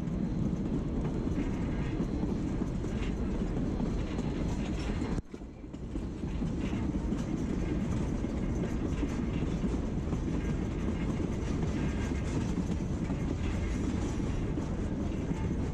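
Narrow-gauge passenger train rolling on the rails, a steady low rumble with clickety-clack of the wheels over rail joints. The sound drops away suddenly for a moment about five seconds in, then returns.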